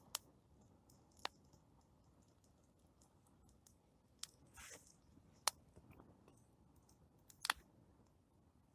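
Burning plum-wood campfire crackling faintly: a handful of sharp, scattered pops, with a brief hiss about halfway.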